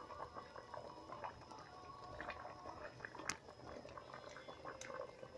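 Faint bubbling of a pot of callos (Galician tripe stew) simmering, with scattered small ticks and two sharper clicks, one past the middle and one near the end.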